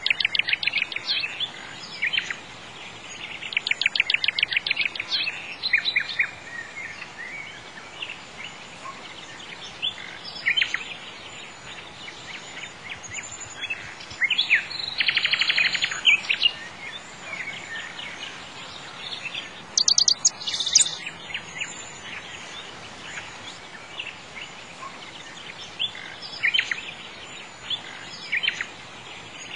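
Birds singing: bursts of fast trills and chirps every few seconds over a steady background hiss.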